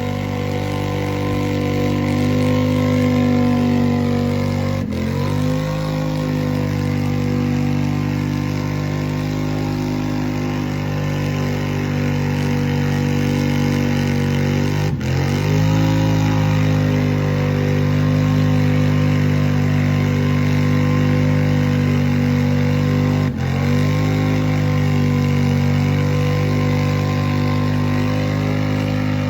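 Off-road vehicle engine running steadily while riding, its note briefly dropping and climbing back up three times.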